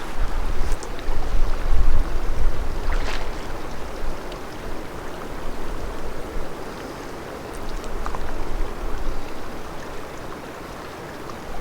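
Wind buffeting the microphone over the wash of lake water: a gusty rumble that is strongest in the first couple of seconds and eases off later, with a few faint clicks.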